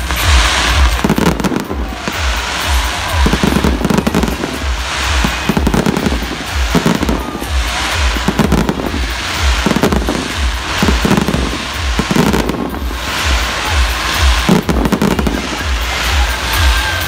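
Fireworks display going off in a dense barrage: rapid booms with crackling in between, with no break.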